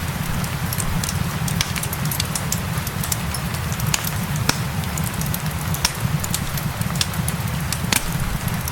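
Fireplace fire crackling, with many irregular sharp pops over a steady low rumble, mixed with a gentle rain.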